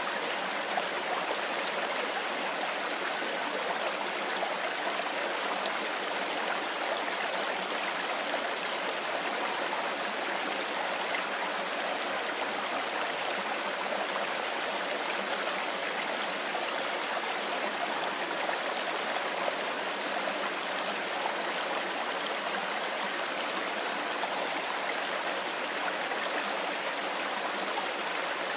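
Mountain river flowing, a steady rushing of water that does not change.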